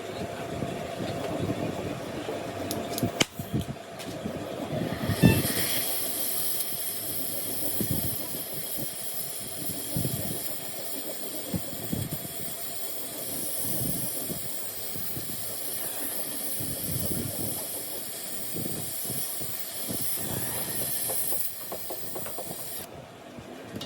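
A steady high-pitched hiss starts suddenly with a knock about five seconds in and cuts off abruptly near the end, over scattered low knocks and handling noise.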